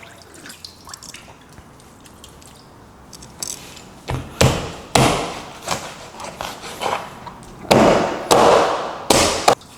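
Chicken back being chopped through the bone on a cutting board. After a quiet few seconds come a series of hard, irregular chops, with a longer scraping or rubbing noise near the end.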